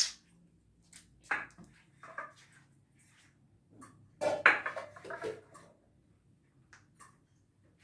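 Kitchen handling noises: a sharp click at the start, then scattered knocks and clatters, the loudest cluster about four to five seconds in.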